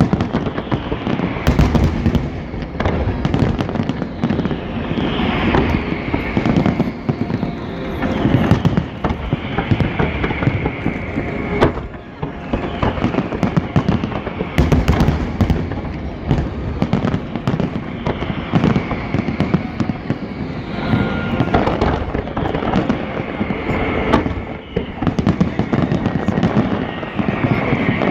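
Professional aerial fireworks display with shells bursting in dense, overlapping booms and crackles. Several high tones fall in pitch along the way.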